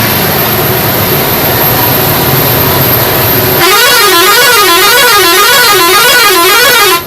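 Truck horn over road noise: a steady hooting tone at first, then, about three and a half seconds in, a loud warbling horn whose pitch swings up and down about twice a second, cutting off suddenly at the end.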